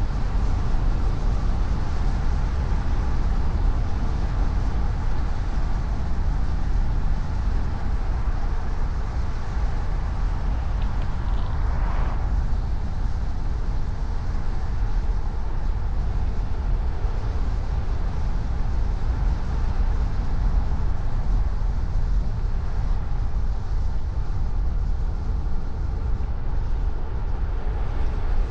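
Car driving at a steady speed: constant low road and engine rumble.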